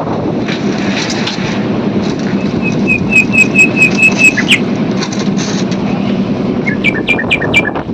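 A steady mechanical hum, with a bird chirping in two quick runs of high notes, about three seconds in and again near the end.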